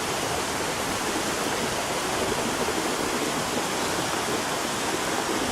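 Steady rushing noise of a heavy downpour still falling and floodwater running down a street, which has turned into a muddy river.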